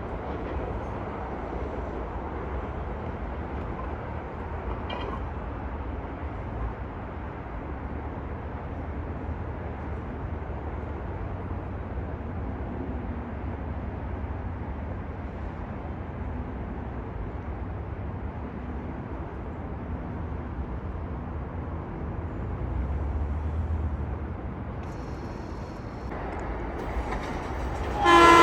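Steady low rumble of a Metro-North train running through the station. A loud train horn starts right at the end.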